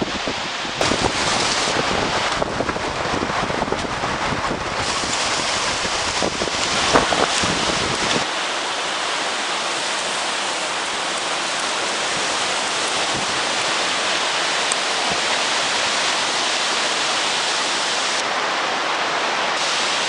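Strong wind blowing over the microphone with heavy surf. For about the first eight seconds gusts add a low buffeting rumble, then it settles into a steady hiss of wind and waves.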